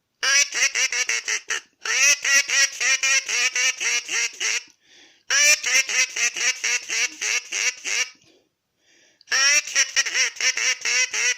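Acme crow call blown as a duck call: rapid runs of short quacking notes, several a second, in four bursts with short pauses between. It imitates the duck call that says the water is safe and the ducks are down and moving about.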